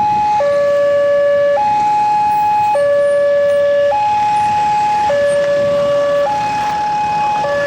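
Railway level-crossing warning alarm sounding: an electronic two-tone signal alternating steadily between a low and a higher tone, each held a little over a second.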